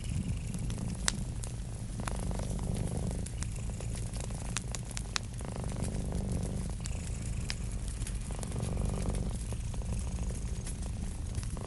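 Domestic cat purring steadily with a low rumble, swelling every couple of seconds with its breaths, over a wood fire crackling with scattered sharp pops.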